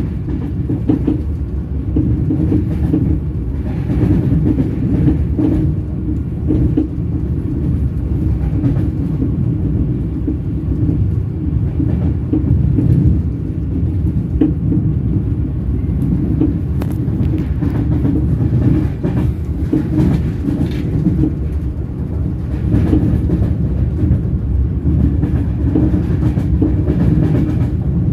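Train wheels rolling on the rails: a steady low rumble with scattered sharp clacks.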